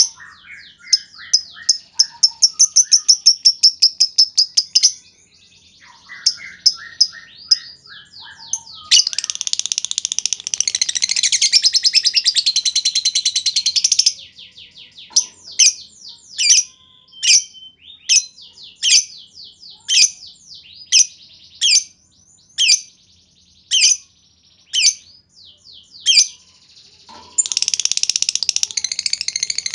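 Lovebird calling: fast runs of sharp, high chirps in the ticking 'ngetik' style, broken by long, dense chattering trills ('ngekek') from about nine to fourteen seconds in and again near the end. Between them come single chirps, one every half second or so.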